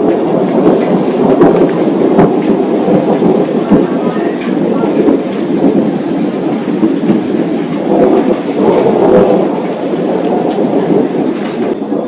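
Thunderstorm: heavy rain with a continuous rumble of thunder that swells and eases.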